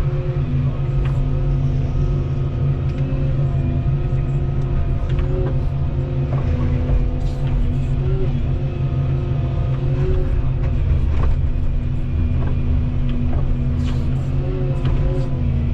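Volvo 235EL excavator's diesel engine running steadily with its hydraulics working, the pitch dipping briefly several times under load, with scattered short clicks and knocks.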